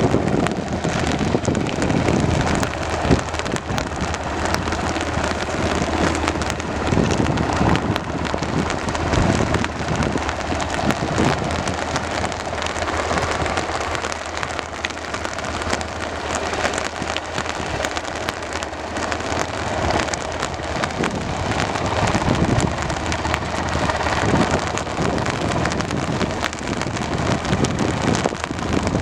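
Steady rain falling, with uneven low rumbling surges like wind gusting on the microphone.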